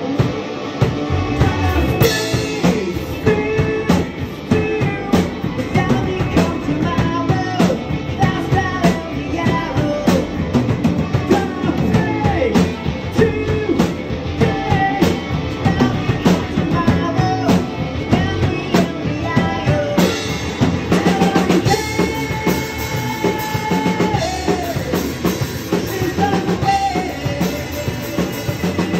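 Indie rock band playing live: full drum kit with bass drum and snare hits driving a steady beat under bass and electric guitars, with a melodic line bending above them.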